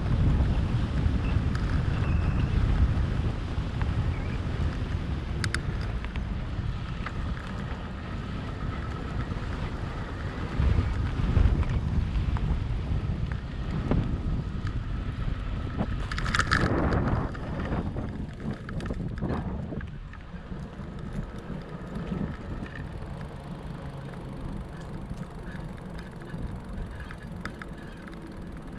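Wind buffeting the microphone over the low rumble of 4.4-inch Schwalbe Jumbo Jim fat-bike tyres rolling, with a brief louder rush about halfway through.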